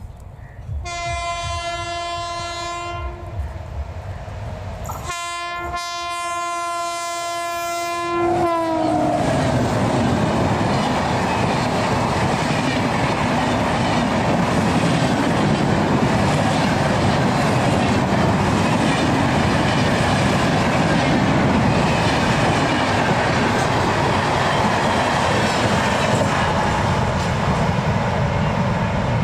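Indian express train passing at speed through a station: its locomotive sounds two long horn blasts, the second dropping in pitch as the engine goes by, then the coaches rush past with a steady rumble and wheel clatter.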